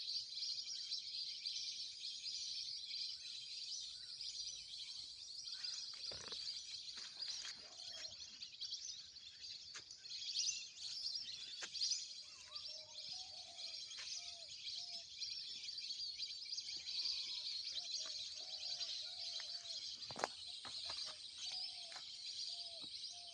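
Birds chirping in a dense, steady high-pitched chorus. From about a third of the way in, short lower wavering calls repeat every second or so.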